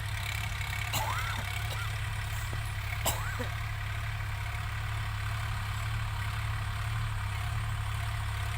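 New Holland 3600-2 tractor's diesel engine idling steadily, with two sharp clicks about one and three seconds in.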